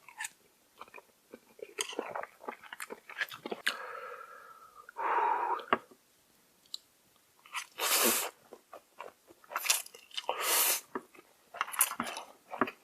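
Close-up eating sounds of a person eating noodles and kimchi: chewing with many small wet clicks and crunches, broken by a few louder hissing mouth noises lasting up to about a second.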